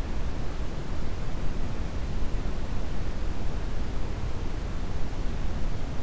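Steady brown noise: an even, deep rushing hiss, heaviest in the low end and thinning toward the highs, with no change throughout.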